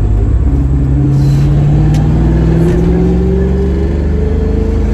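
Foxbody Mustang's engine pulling under acceleration, its pitch rising steadily, heard from inside the car's cabin.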